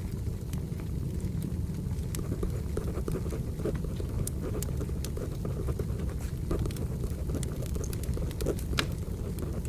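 Firewood burning: a steady low rumble with irregular crackles and pops, a sharper pop near the end. Pencil writing sounds are layered over the fire.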